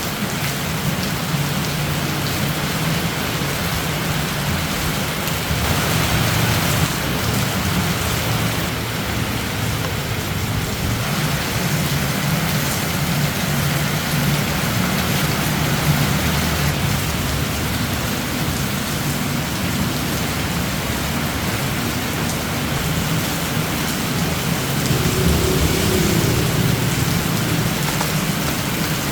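Steady, even hiss with a low hum underneath, a little louder about six seconds in and again near the end.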